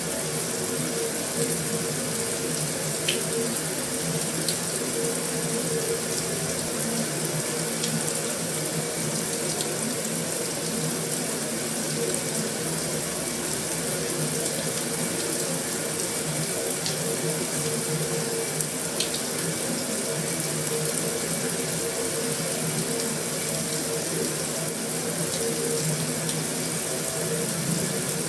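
Heavy rain drumming steadily on a metal roof, an even dense hiss with a few faint ticks now and then.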